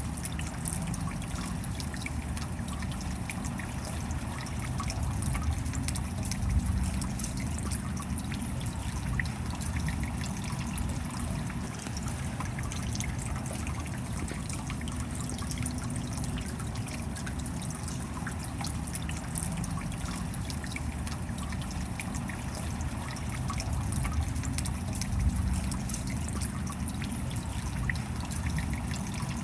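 Steady rain: a dense patter of drops over a low rumble, swelling slightly twice.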